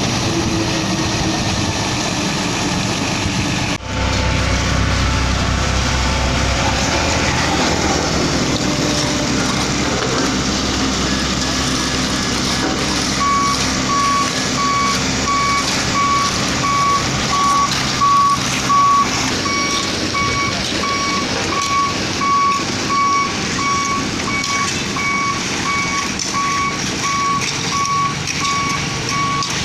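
Hino concrete mixer truck's diesel engine running, joined about halfway through by its reverse alarm beeping steadily, roughly two beeps a second, as it backs up.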